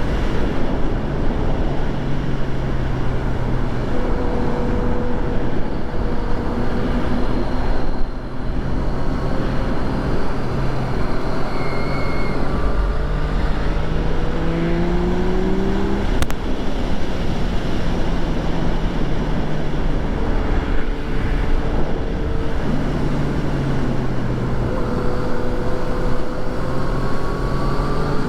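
2014 Yamaha FZ-09's three-cylinder engine under way, its pitch climbing as it pulls through the revs and dropping back at each gear change, over a steady rush of wind and road noise. A single sharp click sounds about sixteen seconds in.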